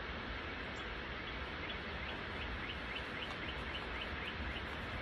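A small bird's trill of quick, repeated chirps, about five a second, starting about a second and a half in and stopping near the end, over steady outdoor background noise.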